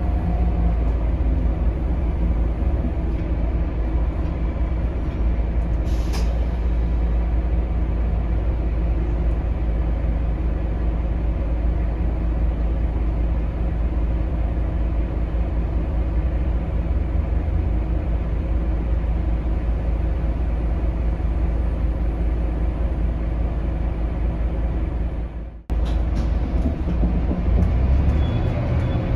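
Scania K280UB city bus on the move, heard from on board: its Scania DC9 five-cylinder diesel and road noise rumble steadily, with a short click about six seconds in and a momentary break in the sound near the end.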